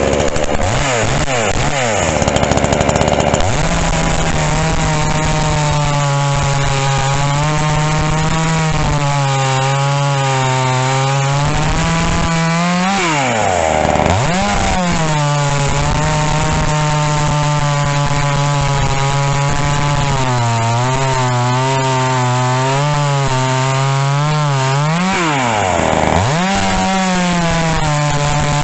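Gas chainsaw running at high revs, as when cutting wood, its pitch wavering under load. It revs up in the first few seconds and drops back sharply before climbing again twice, about halfway through and near the end.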